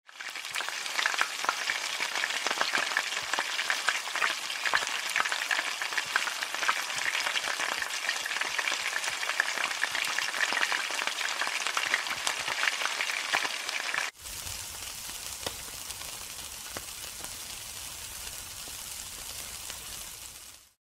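Food frying in hot oil with a dense, crackling sizzle. About fourteen seconds in it cuts to a quieter, steadier sizzle with a low rumble underneath.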